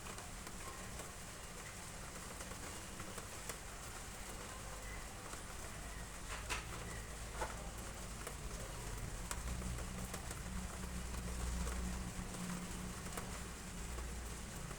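Steady rain falling, with scattered sharp drops and drips.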